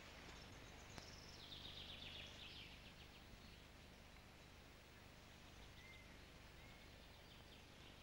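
Faint songbird song over a steady hiss and low hum: a rapid trill of high chirping notes, sliding slightly downward, about a second and a half in, then a single short whistled note around six seconds.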